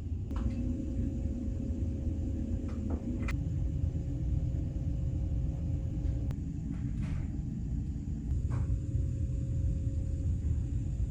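Steady low rumble of a large car ferry's engines and onboard machinery, with a faint steady hum that stops and starts and a few light clicks and knocks.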